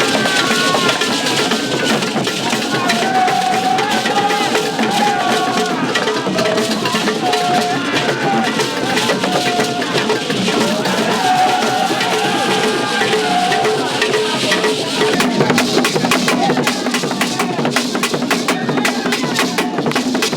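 Drum-led music: drums struck in dense, rapid strokes with a wavering melodic line over them.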